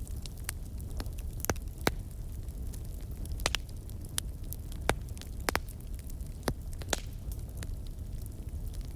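Wood fire burning in a fireplace: irregular sharp pops and crackles, about one a second, over a steady low rumble of the flames.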